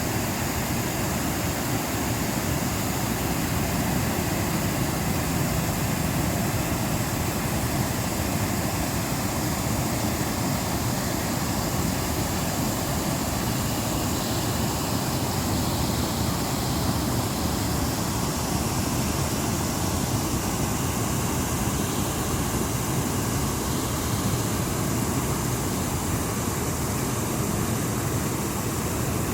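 Water rushing steadily, an even unbroken noise that neither rises nor falls.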